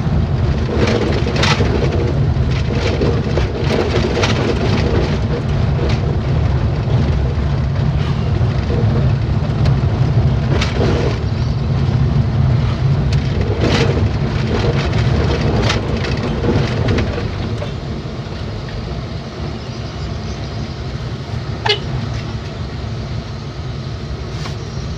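Truck on the move: a steady low engine and road drone with scattered knocks and rattles through the first two-thirds, then quieter, with one sharp click near the end.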